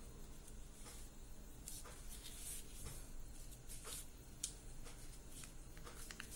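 Faint handling noise: light rustles and a few soft clicks as a portable Bluetooth speaker is handled, over a low steady hum.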